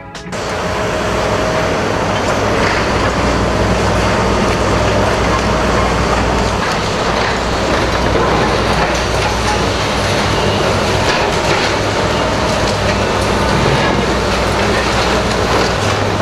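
Heavy machinery running continuously: a loud, steady mechanical noise over a low hum, starting abruptly.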